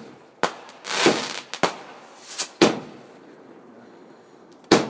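Fireworks going off: about six sharp bangs at uneven intervals, with a crackling patch about a second in and a gap of nearly two seconds before one last bang near the end.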